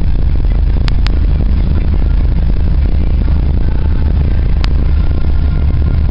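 Oldsmobile 350 V8 with dual exhaust running steadily at low speed, a deep even rumble, with three brief sharp clicks.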